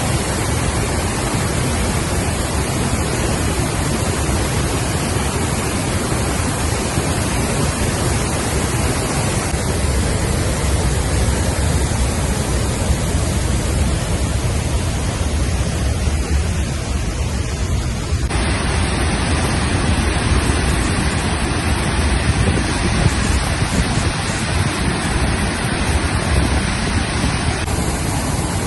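Steady rushing of water pouring over a man-made waterfall, about 8.6 m high, formed by a stone dam on a mountain river. The sound changes character abruptly about 18 seconds in.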